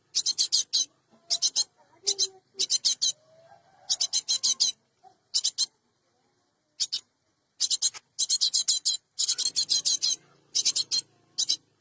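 Cinereous tit (gelatik batu) giving harsh, rasping chattering calls in short rapid bursts, repeated in groups, with a pause of about a second partway through.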